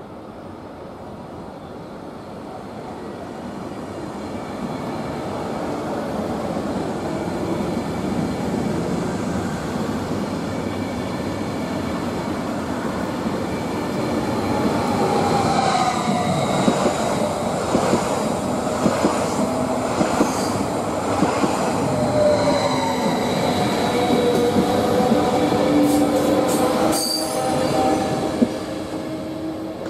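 ETR 470 Pendolino electric tilting train pulling into a station: its running noise grows as it draws near. From about halfway, wheels and brakes squeal in several high tones that slowly slide in pitch as it slows.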